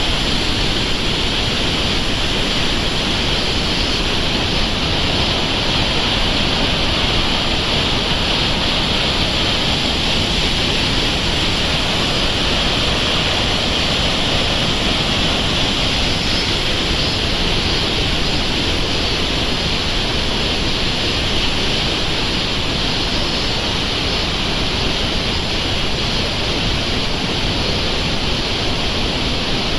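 Fukuroda Falls, a large multi-tiered waterfall, pouring in a loud, unbroken rush of water just after a typhoon has passed.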